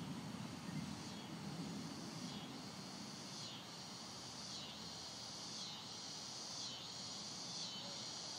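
Insect chorus, a high pulsing call repeating about once a second, over a steady hiss. Low thunder rumble fades out in the first second or two.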